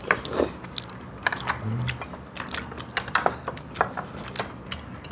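People chewing and biting food at a meal, with many short, irregular clicks and crunches.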